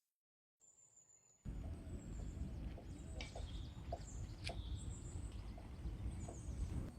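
Outdoor ambience: birds chirping over a steady low rumble, starting abruptly about a second and a half in after a moment of silence, with a few sharp ticks.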